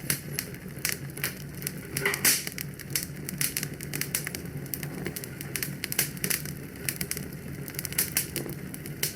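Wood fire crackling in a fireplace: a dense, irregular run of small pops and snaps over a low steady rumble, with one louder pop about two seconds in.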